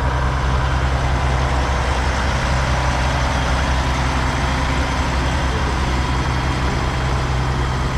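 Heavy diesel truck engine running with a steady low drone.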